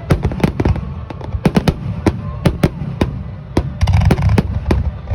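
Aerial fireworks shells bursting in a rapid barrage: sharp bangs several times a second over a continuous low rumble. The bangs come thickest about four seconds in.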